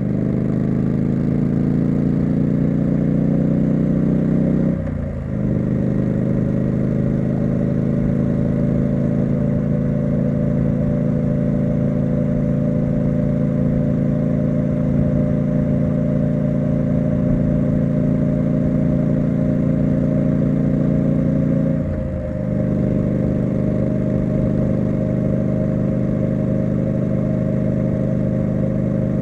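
Triumph Street Scrambler's 900 cc parallel-twin engine and exhaust under way, holding a steady note. It briefly drops and changes pitch twice, about five seconds in and again near twenty-two seconds, as the rider shifts gear.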